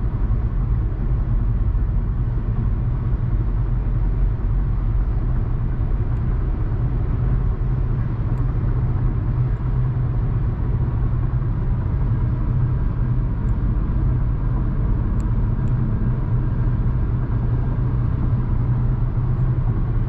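A car driving at highway speed, with a steady low rumble of road and engine noise heard from inside the cabin.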